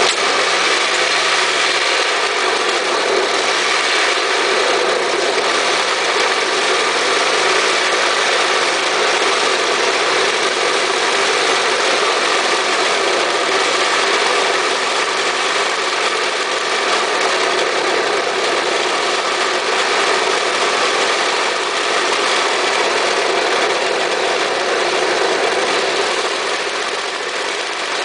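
Jacobsen snowblower's two-stroke engine catching on a cold start, its first run in months. It comes in suddenly and then runs steadily.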